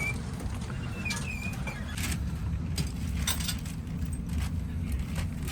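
Steady low rumble inside a train carriage, with a high, wavering squeak in the first second or so and several sharp clicks and knocks later on.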